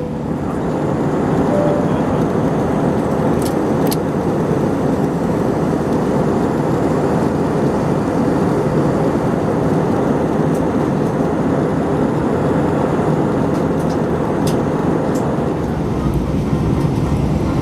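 Steady roar of an Airbus A320-232 passenger cabin in flight: engine and airflow noise, even throughout, with a few faint clicks.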